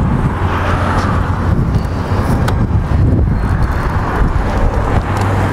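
2008 Yamaha R1's 1000cc inline four-cylinder engine idling steadily, with wind buffeting the microphone.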